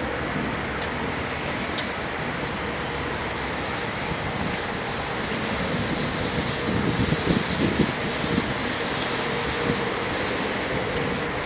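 Amtrak Dash 8 diesel locomotive (GE P32-8BWH) idling at the platform: a steady running drone with fan and blower noise and a faint steady hum, with some uneven low rumbling near the middle.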